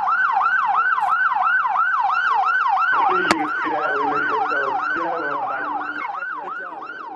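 Police siren wailing in a fast yelp, about three sweeps a second, with a sharp click about three seconds in. It grows gradually fainter toward the end.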